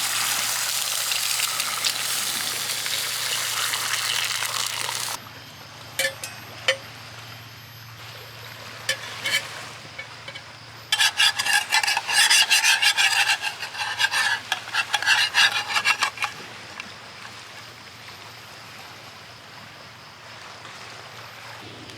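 Food sizzling in a frying pan, a steady hiss that cuts off suddenly about five seconds in. A few sharp clicks follow, then several seconds of rapid clattering and scraping of a utensil stirring in the pan, before a quieter steady background.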